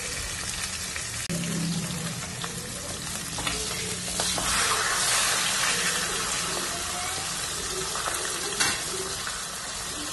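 Hilsa fish head pieces sizzling steadily in hot oil in a metal kadai, stirred with a metal spatula. The frying swells louder for a second or so near the middle, and there is a single sharp clink of the spatula on the pan near the end.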